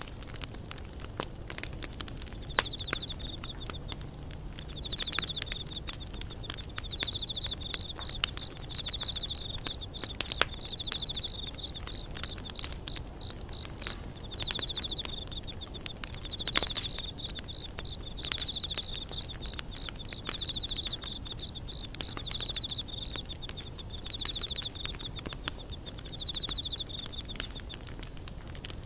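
Wood campfire crackling with scattered sharp pops, over the steady low rush of a mountain stream. High, fast chirping trills from insects come in repeated bouts of a second or two.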